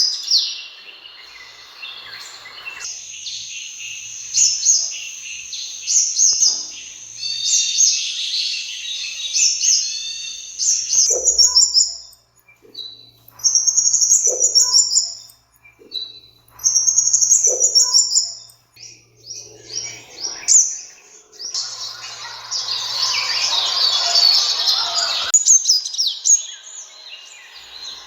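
Sunbird calls: rapid, high-pitched chirps and twittering trills in phrases with short gaps between them, and a dense, noisy stretch of twittering about three quarters of the way through.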